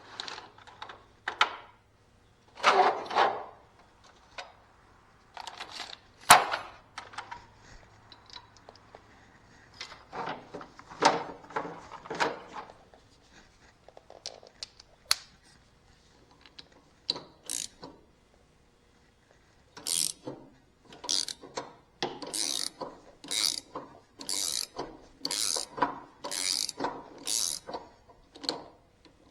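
Scattered clinks and knocks of hand tools on metal, then, about two-thirds of the way in, a ratchet wrench clicking in a steady run of strokes, a little more than one a second, as it turns a bolt on the mower's lap-bar linkage.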